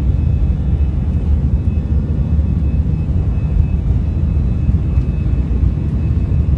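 Airliner cabin noise: the engines and airflow make a steady, loud, deep rumble, with a faint steady high whine above it.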